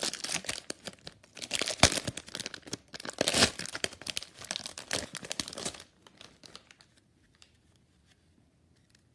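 Trading card pack wrapper being torn open and crinkled in quick, irregular rips and rustles, dying away to near quiet about six seconds in.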